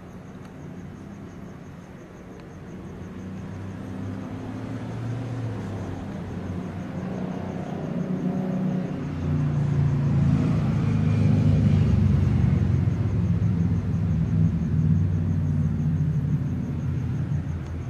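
A road vehicle's engine and tyres passing by: a low rumble that builds steadily, is loudest a little after the middle, and fades near the end.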